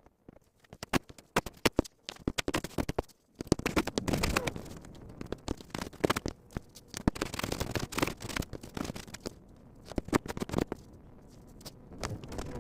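A few sharp clicks and knocks of tool and wood being handled, then from a few seconds in a hand plane shaving a wooden fretboard in repeated rasping strokes, taking down its uneven side.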